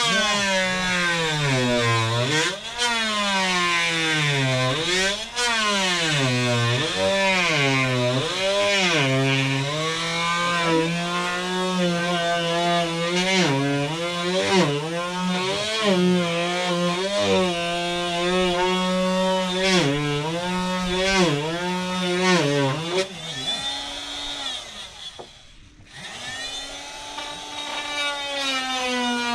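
Electric power saw cutting wood, its motor whine sagging in pitch again and again as it slows under load and picking back up between cuts. About three-quarters of the way through it winds down almost to a stop, then speeds up again near the end.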